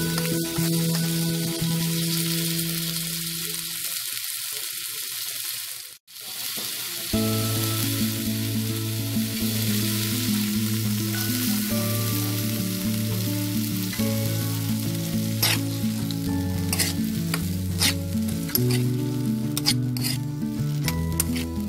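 Vegetables for a cauliflower stir-fry sizzling steadily in hot oil in a pan as they are stirred. The sound cuts out for a moment about six seconds in. In the second half, a utensil clicks and taps sharply against the pan several times.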